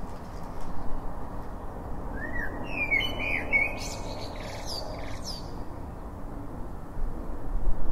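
A few birds chirping and whistling briefly, over a steady low background noise that grows louder near the end.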